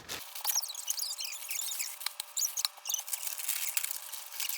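Packing paper crinkling and rustling in quick irregular crackles as it is crumpled and wrapped around a bottle.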